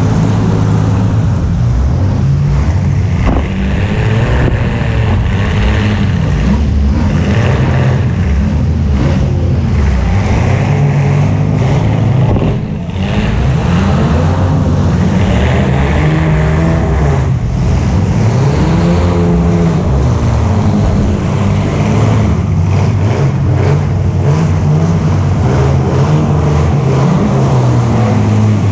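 A vehicle's engine, heard up close from a camera mounted on the vehicle, running loud and revving up and down over and over, with its pitch rising and falling every few seconds. It briefly drops off about halfway through.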